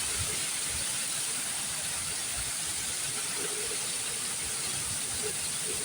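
Heavy rain falling steadily in a storm, a dense even hiss, with irregular low rumbles of wind underneath.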